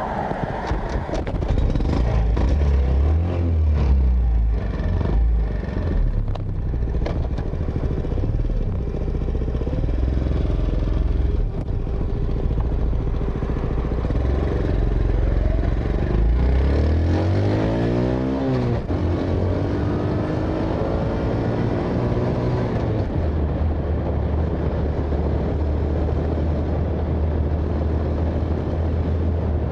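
Honda Super Cub 90's single-cylinder four-stroke engine running through a newly fitted cheap monaka-type aftermarket muffler. The engine speed rises and falls, climbs steeply a little past halfway, drops sharply, then holds steady near the end.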